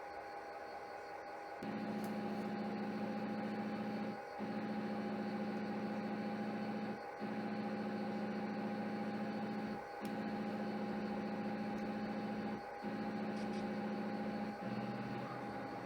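HO scale model locomotive running under power with a steady electrical hum and a constant high whine. The hum starts about two seconds in and drops out briefly about every three seconds.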